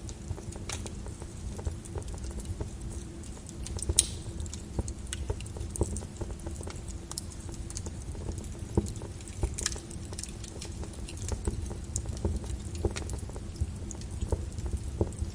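Flowing lava crackling and popping with irregular sharp cracks over a steady low rumble, one crack standing out about four seconds in.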